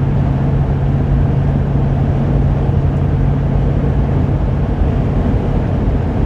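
Road and engine noise inside the cab of a Class C motorhome cruising on the highway into a slight wind: a steady drone with a low hum that fades out about four seconds in.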